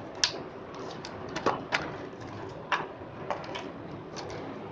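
A small product package being opened and handled by hand: about a dozen scattered sharp clicks and crinkles of packaging.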